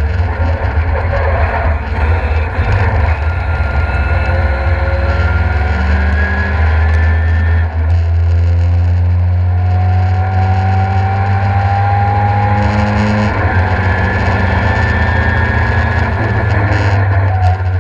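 In-cabin sound of a Mk2 Ford Escort's Mazda RX-8 rotary engine accelerating hard on track. The revs climb steadily, drop with an upshift about 8 seconds in and again about 13 seconds in, then climb again. A heavy low road-and-wind rumble runs underneath.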